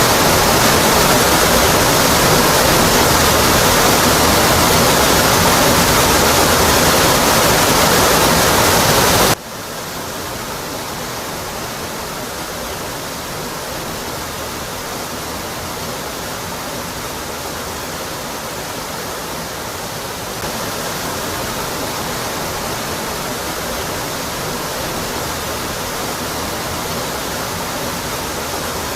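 Waterfall rushing steadily as water pours down a rock cliff. About nine seconds in, the rush drops suddenly to a quieter, duller level, then rises a little again about two-thirds of the way through.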